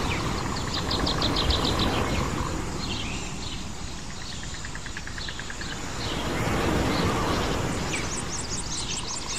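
Birds singing rapid trills of repeated chirps, three in all, the last one falling in pitch, over a steady rushing background that swells and eases.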